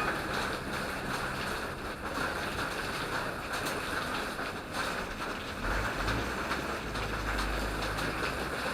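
Steady rush of falling water, with a low rumble of wind on the microphone from about six seconds in.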